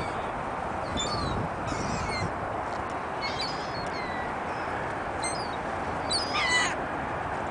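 Gulls and ducks calling on a frozen lake: short, scattered calls every second or so, loudest a little after six seconds in, over a steady background hiss.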